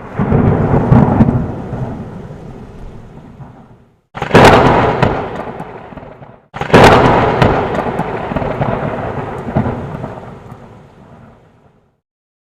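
Three claps of thunder, each breaking suddenly and rolling away over a few seconds, the last fading out about a second before the end.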